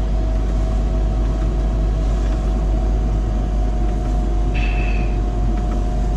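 Loader's diesel engine running steadily just after being started, a low rumble with a steady whine over it. A brief high beep sounds about four and a half seconds in.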